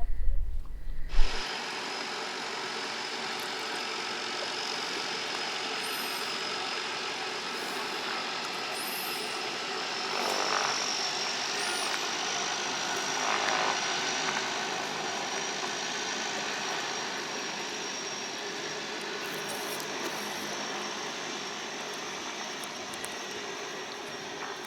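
Steady drone of a distant floatplane's propeller engine running on the water, with a faint high whine over it; it swells a little about ten and thirteen seconds in.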